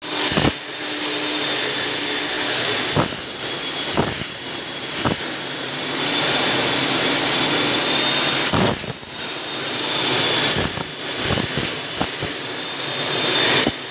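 Electric power tool running steadily with a high whine, broken by irregular sharp knocks a second or more apart.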